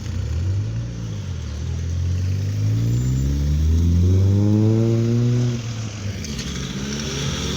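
A car's engine accelerating away as it leaves, its note climbing for several seconds, dropping at a gear change a little past halfway, then climbing again.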